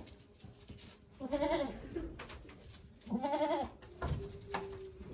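A goat bleating twice, each a wavering call of about half a second, about two seconds apart.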